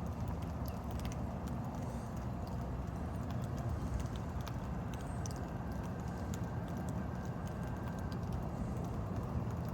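Storm rain and drips: a steady low rush with scattered light ticks and taps coming irregularly throughout.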